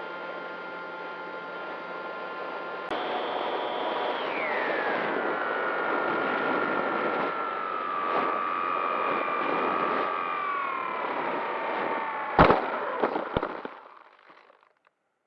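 Electric RC model plane's motor whining over rushing air, its pitch stepping up and then falling steadily, ended by one sharp crash impact near the end and a few smaller knocks before the sound dies away: the plane crashing.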